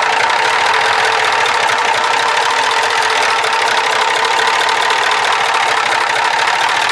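Cummins 903 V8 diesel engine of a Ford LNT 9000 truck running steadily, loud and unchanging.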